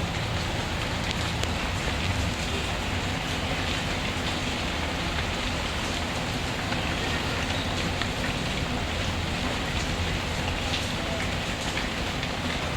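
Steady rainfall, a continuous even hiss, mixed with a wood fire crackling in scattered small pops.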